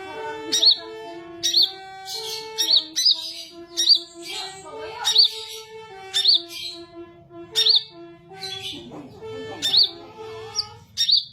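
A small caged songbird, a kolibri (sunbird), repeating a sharp, high chirp about once a second, with busier twittering between some chirps. Slow background music with a held, stepping melody plays underneath.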